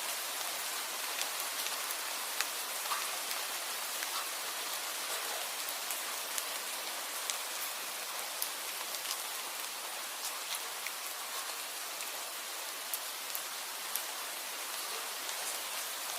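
Steady rain falling: an even hiss with sharp, irregular drop ticks scattered through it.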